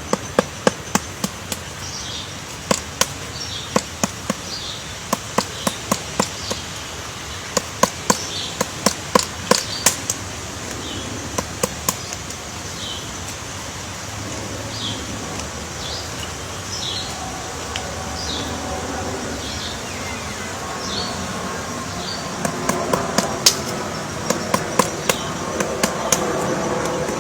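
Short high chirps repeated about once a second, typical of a small bird calling, with runs of sharp clicking taps that are the loudest sounds. A low droning sound joins in during the second half.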